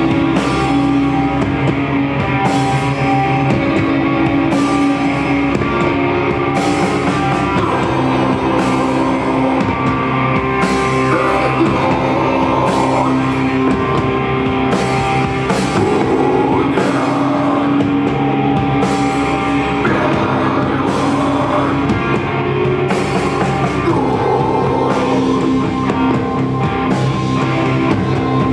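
A rock band playing live, with drum kit and guitars holding sustained notes; a wavering lead line rises over them through the middle stretch.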